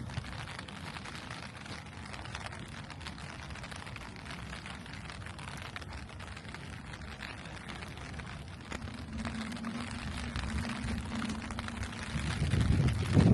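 Steady rain falling, a dense patter of small drop ticks. From about nine seconds a low steady hum joins in, and a louder low rush swells near the end.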